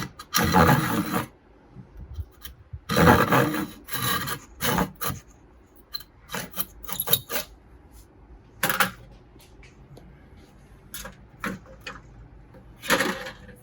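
Small handsaw rasping through the wooden base in irregular strokes, two longer ones near the start and shorter, scattered ones after.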